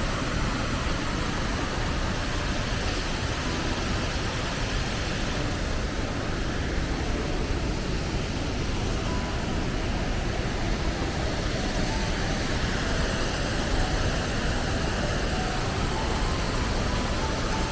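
Steady rushing of a fast-flowing creek, an even noise with no breaks.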